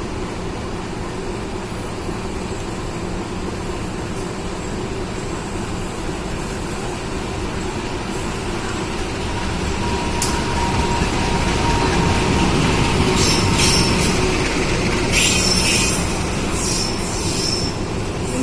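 A train moving on the tracks: a steady low rumble that grows louder from about halfway through, with high-pitched wheel squeals in the last few seconds.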